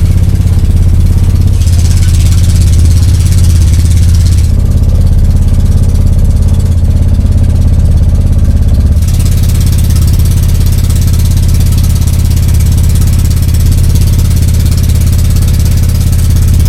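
A boat's engine running steadily under way, a loud, even hum, with a higher hiss over it that swells for a couple of seconds early and again from about halfway.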